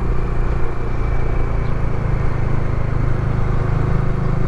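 Motorcycle engine running steadily at cruising speed, with wind and road noise, picked up by a lavalier mic inside the rider's helmet chin curtain. It is an even low rumble with no change in pace.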